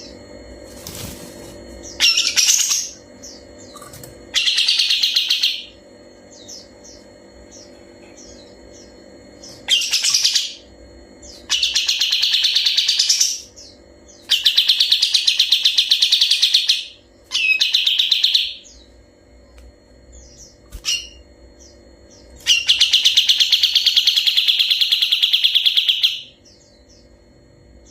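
Kapas tembak, a bulbul, singing long rapid rattling trills ('ngebren') in repeated bursts of one to four seconds with short pauses, the longest burst near the end.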